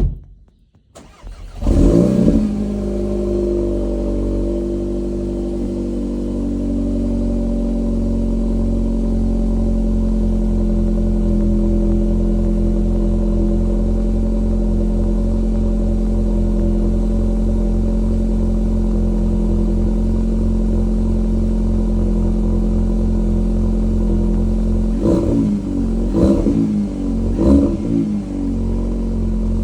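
Volkswagen Golf GTI Clubsport's turbocharged four-cylinder engine with an Akrapovič exhaust cold-starting about two seconds in, then settling into a steady fast idle. Near the end it is revved in three short blips.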